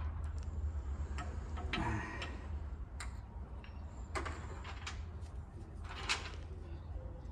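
Irregular light clicks and taps of engine parts and hand tools being handled during an engine teardown, with a short scrape about two seconds in, over a steady low hum.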